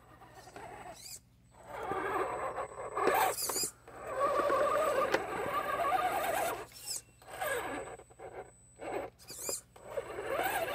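RC rock crawler's Novak 55-turn brushed motor and gear train whining in several short spurts, the pitch rising and falling with the throttle as the truck strains to crawl over a rock and gets in a bind.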